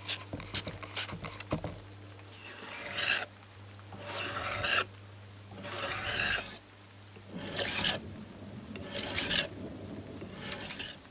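Abrasive hand strokes, sandpaper or file dragged across a hard surface: six slow strokes, each about a second long and about one and a half seconds apart. A few sharp taps come in the first two seconds.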